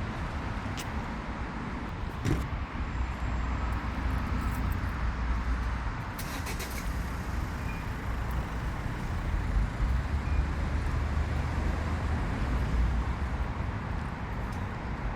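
Steady vehicle noise: a continuous low rumble with a few faint clicks.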